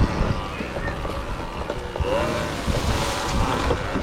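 Electric trials motorcycle being ridden over rough dirt trail: wind on the microphone over a steady rumble, with scattered knocks from the bike and tyres over the ground.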